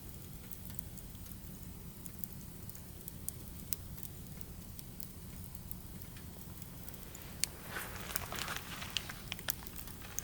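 Firewood burning with a low steady rumble and scattered sharp pops and crackles, which grow busier from about seven and a half seconds in.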